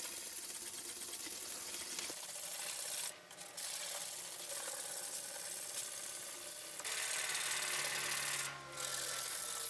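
Steady rubbing and scraping of hand abrasive work on a part of an antique tobacco cutter. It breaks off briefly about three seconds in and again near the end.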